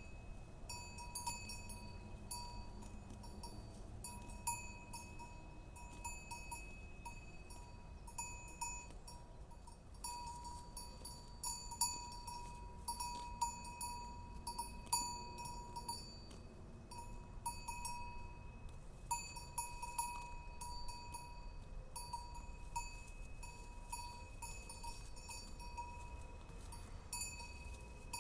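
Metal bells clanking irregularly, each stroke ringing on in a few steady high tones.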